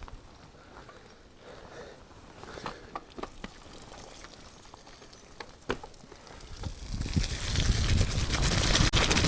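Mountain bike on a wet, muddy trail: scattered light clicks and knocks of the bike at first. From about seven seconds in, a rising rush of wind and tyre noise as it gets rolling.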